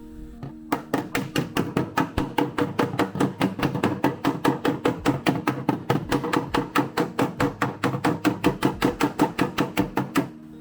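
Body hammer striking a steel car body panel in a fast, steady run of blows, about five a second, stopping just before the end. This is panel-beating on stretched sheet metal.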